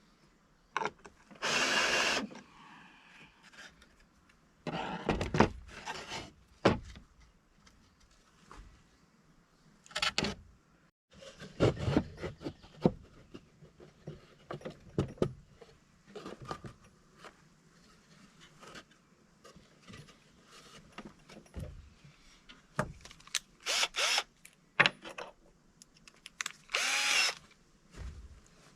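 A power drill running in short bursts of a second or two, several times, with clicks and knocks of handling in between.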